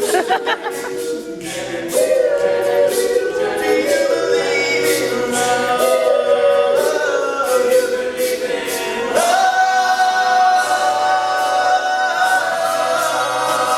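All-male a cappella group singing in close harmony over a sung bass line, with no instruments. About nine and a half seconds in, the voices move onto a long held final chord.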